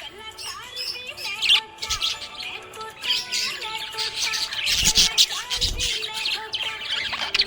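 Budgerigar chirping and warbling in a busy, continuous stream of short chirps and twittering notes.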